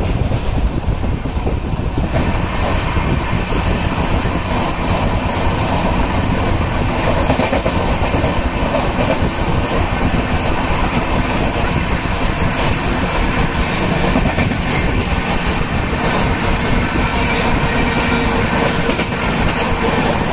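Indian Railways passenger coaches rolling past close by: a loud, steady rumble of wheels on rail with scattered sharp clatter as the wheels cross rail joints.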